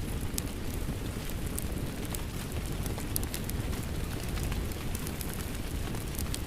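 Steady rain mixed with a crackling wood fire: a dense, even wash of rainfall under frequent small sharp pops and crackles from the burning wood.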